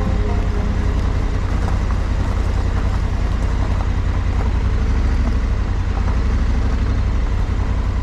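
Honda Africa Twin's 1084 cc parallel-twin engine running at low speed, a steady deep rumble.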